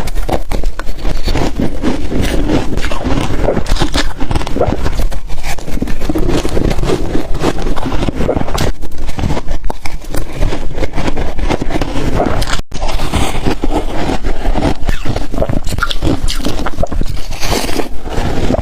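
Ice dusted with matcha and milk powder being bitten and crunched between the teeth in a steady run of loud, dense crunches, broken once by a split-second gap about two thirds of the way through.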